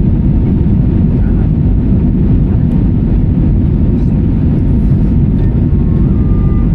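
Steady, loud, low roar of a jet airliner's cabin in flight, heard from inside the cabin.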